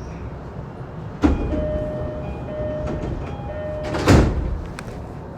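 Commuter train's door-closing chime: three high-low two-note chimes, followed about four seconds in by the sliding doors shutting with a heavy thump, over the steady rumble of the stopped train.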